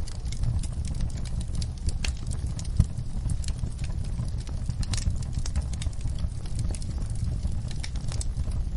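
Wood fire crackling: irregular sharp pops and snaps over a steady low rumble of burning flames, with one louder pop about three seconds in.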